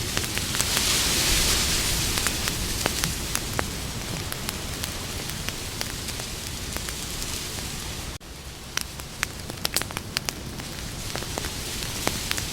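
Campfire crackling: a steady hiss of burning wood with frequent sharp pops and snaps. The sound dips suddenly about eight seconds in, then comes back with a quick run of pops.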